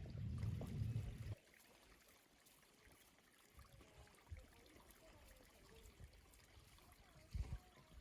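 Liquid being poured, stopping abruptly about a second and a half in; then faint background sound with two soft knocks near the end.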